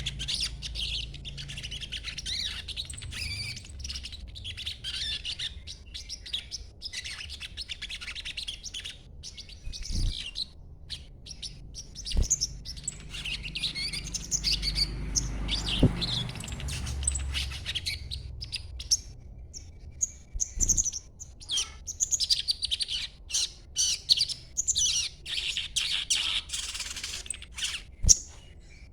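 A young sogon songbird, still in green juvenile plumage, chattering with rapid, high twittering phrases almost without pause. There are a few short lulls and some sharp knocks in the background.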